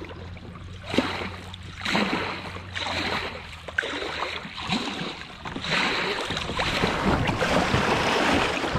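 Water rushing and splashing around a Jackson Bite Angler fishing kayak as it runs a small river rapid. There are repeated surges of splashing about once a second, with a few sharp knocks, and the splashing gets louder and fuller toward the end.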